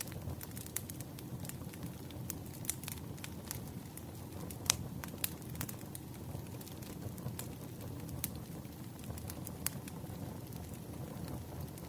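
Crackling wood fire: irregular sharp pops and snaps over a low steady rumble.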